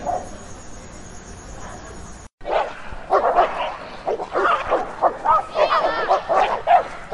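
Dog barking: a single bark near the start, then, after a short gap, a fast run of many sharp barks mixed with higher yelps.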